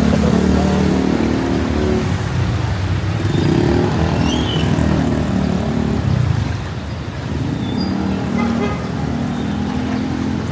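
Motor vehicles running in street traffic: a steady engine hum, strongest near the start and again near the end, over a low rumble.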